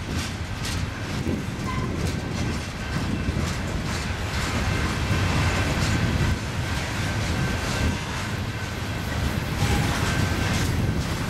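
A BNSF freight train's cars rolling past, their wheels clicking over rail joints in a steady rumble, with a thin, faint squeal from the wheels.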